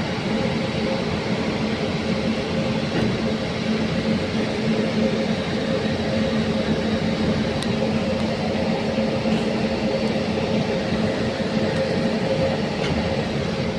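Electric locomotive running: a steady hum with constant droning tones under an even rushing noise that does not change.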